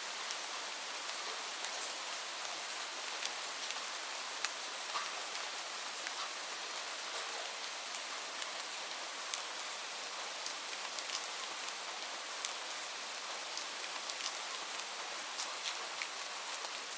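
Steady rain falling on leaves: a constant hiss dotted with many separate drop ticks.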